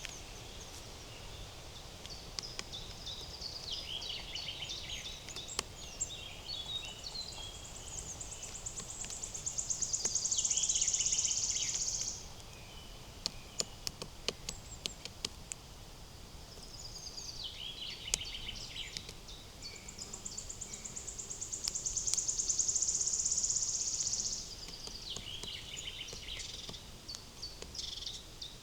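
A forest songbird singing two long songs, each a run of varied high twittering notes that ends in a loud, very fast trill held for about three seconds. Scattered sharp taps come between the songs over a faint steady forest background.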